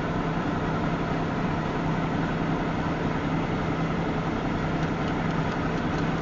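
Steady rumble of a slow-moving freight train of tank cars rolling past, with a constant low hum and a few faint clicks near the end.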